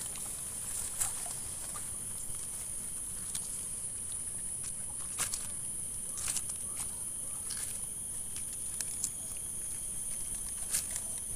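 Outdoor ambience: a constant high-pitched insect drone over a low wind rumble, with scattered soft clicks and taps.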